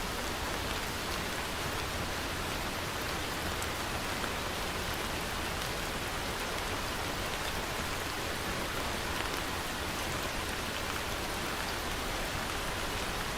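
Steady rainfall: an even hiss of rain with scattered small drop ticks, no thunder.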